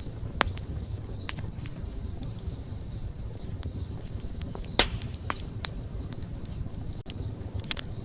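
Wood campfire burning with a steady low rumble of flame and scattered sharp crackles and pops, about six in all; the loudest pop comes a little before the five-second mark.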